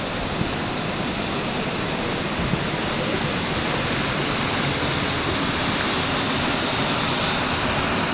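Steady rushing noise of wind and sea water on a cruise ship's open deck, with a faint steady high whine from the ship underneath.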